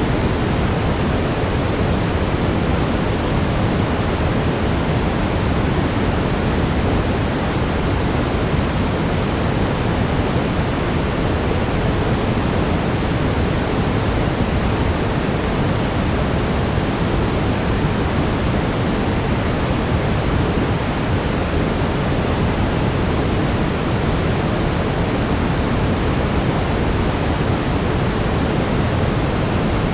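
Steady brown noise: an even, unbroken rushing hiss weighted toward the low end.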